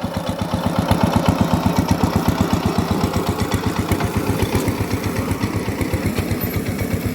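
Micro-tractor (two-wheel walking tractor) engine running steadily while driving, with an even low beat of about ten pulses a second.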